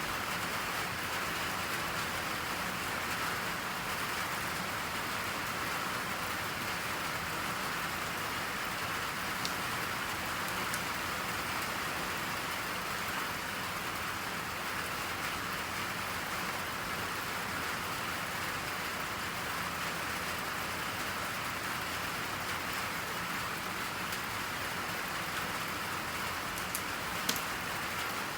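Steady rain falling, an even hiss without a break, with a few faint clicks about ten seconds in and again near the end.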